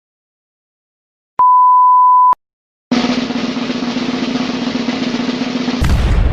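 A one-second 1 kHz censor bleep, then after a short silence a snare drum roll that ends in a loud crash near the end.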